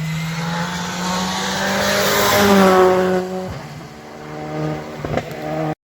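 Rally car engine at high revs, rising in pitch as the car accelerates past and loudest about two and a half seconds in. It drops off sharply for a gear change, then climbs again, with a few sharp cracks near the end before the sound cuts off abruptly.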